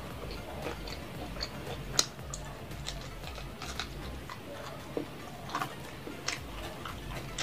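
Close-mic eating sounds: a person biting and chewing fried chicken, with scattered wet clicks and smacks. One sharp click about two seconds in is the loudest.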